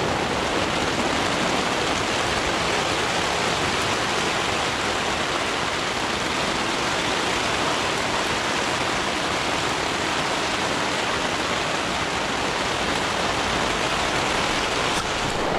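Heavy rain falling steadily in a thunderstorm, a continuous even downpour with no thunderclap standing out.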